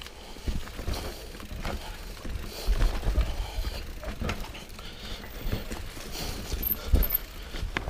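Mountain bike rolling over rough trail: irregular knocks and rattles from the bike over a low, steady rumble.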